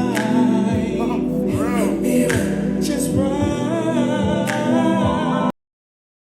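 A man singing over a beat-driven backing track, his voice gliding between notes. The sound cuts out abruptly about five and a half seconds in.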